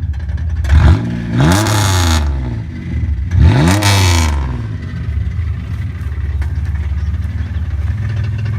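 V6 Chevy Camaro engine revved twice, each rev rising and falling back, then settling into a steady idle. The engine has a rod knock and does not sound healthy.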